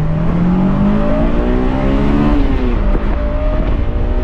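Car engine accelerating hard, its pitch climbing steadily for about two and a half seconds and then falling away, over a heavy low rumble.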